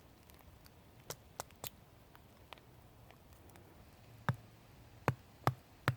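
Sharp knocks of wood being chopped and split with a knife, a few scattered at first, then a steady run of about two to three strokes a second from about four seconds in; the wood is being split to reach its dry inside.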